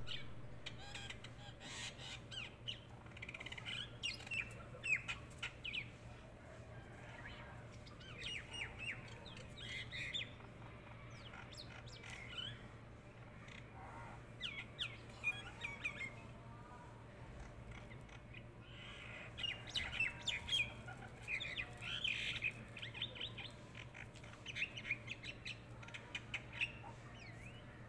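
Birds chirping in clusters of quick, short, high notes with pauses between, over a steady low hum.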